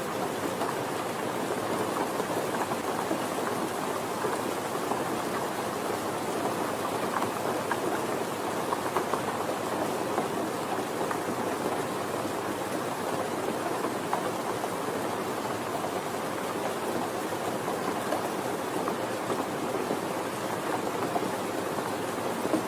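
Steady soft rain falling, an even patter of drops with no thunder or other events.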